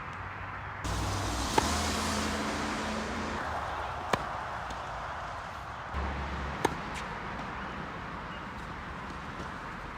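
Tennis ball struck by a racket on forehand shots: three sharp hits about two and a half seconds apart, over a steady background hiss.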